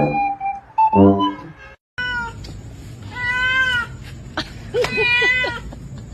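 Domestic cat meowing: two drawn-out meows, rising then falling, with a steady hiss behind them. They follow a sudden cut about two seconds in; before the cut a different, unidentified sound plays, a held steady tone and then a short low pitched burst.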